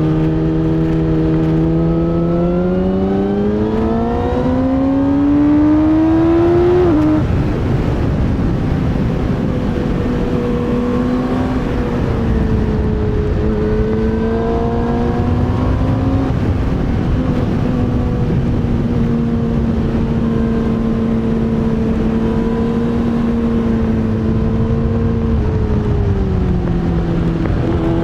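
Yamaha YZF-R6 (RJ27) inline-four engine pulling hard with revs climbing for about seven seconds, then a quick drop at an upshift and a steady run at moderate revs with small rises and falls, easing off briefly near the end, over wind rush.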